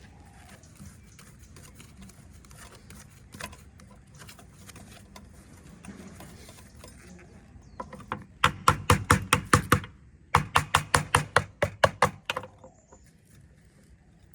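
Faint handling clicks, then two runs of rapid, evenly spaced sharp strokes, about seven a second, from hand-tool work on a part of the old pump.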